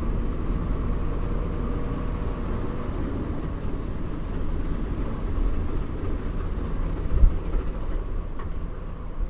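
Bus running along a road, heard from inside: a steady low engine hum and road rumble. The engine note fades about two seconds in, with a few heavier low jolts near the end and a brief click just before it ends.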